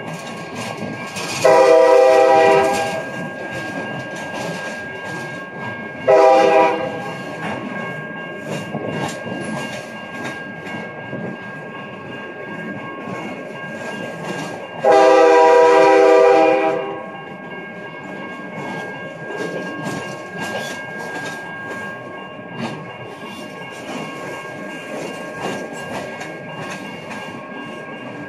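Freight train of tank cars rolling through a grade crossing, wheels clattering over the rails, with the crossing bell ringing steadily. The locomotive's chime horn sounds ahead of the cars: a long blast, a short one, then a longer one, the close of the long-long-short-long grade-crossing signal.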